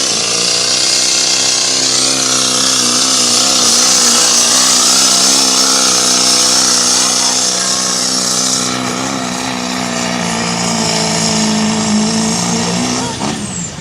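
Pulling truck's engine running hard under load, loud and steady with its pitch wavering up and down, under a high hiss. It cuts off abruptly near the end.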